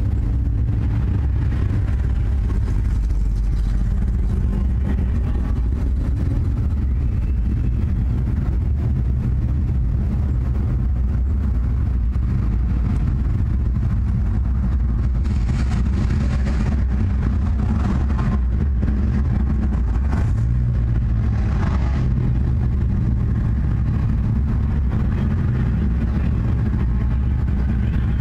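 Race car engine running at a steady idle, heard from the cockpit, with a few brief louder rushes of noise midway through.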